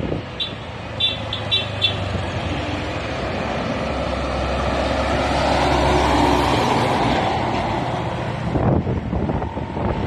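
Road traffic: a few short, high horn toots in the first two seconds, then a heavy vehicle passing close by. Its low engine rumble and tyre noise swell to a peak about six seconds in and then fade.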